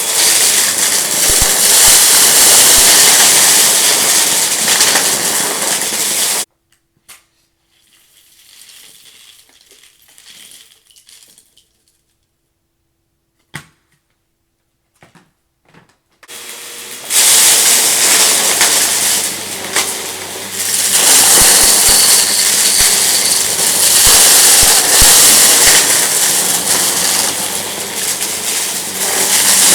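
Vacuum cleaner running on a rug and sucking up crunchy debris, which crackles and rattles through it. The sound stops abruptly about six seconds in, leaving near-quiet with a single click. About ten seconds later the motor starts up again and the loud suction noise carries on.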